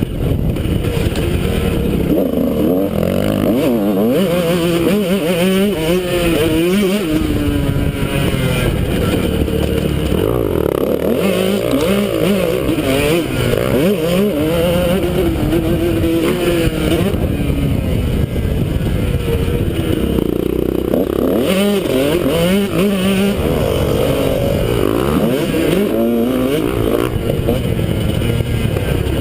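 Honda CR125 two-stroke single-cylinder motocross engine revving hard and falling off again and again as the rider accelerates, shifts and brakes around the track, heard up close from a helmet-mounted camera.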